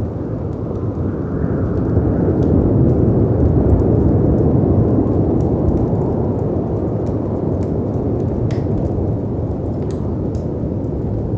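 Layered storm ambience: a steady low rumbling wash of wind and sea surf that swells a few seconds in, with a few faint crackles and pops from a fireplace.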